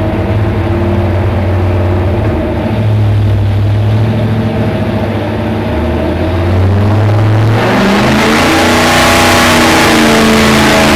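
383 stroker small-block Chevy V8 with dual four-barrel carburettors running at a steady speed, then opened up about two-thirds of the way in: it gets suddenly louder and harsher, and the revs climb slowly.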